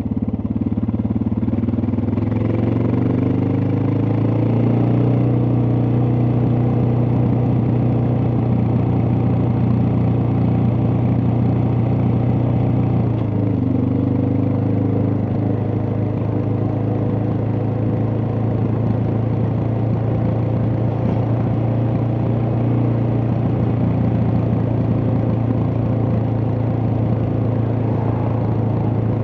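Suzuki DR650's single-cylinder four-stroke engine running under way: it rises in pitch over the first few seconds, then holds steady at cruising speed, with a brief drop and recovery in pitch about halfway through.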